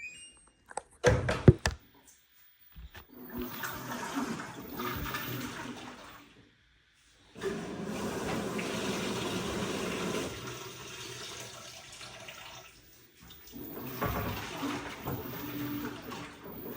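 Water rushing and sloshing inside an LG WT16WV6 top-loading washing machine as it fills and churns a load of towels, in several stretches broken by short pauses. A few sharp knocks come about a second in.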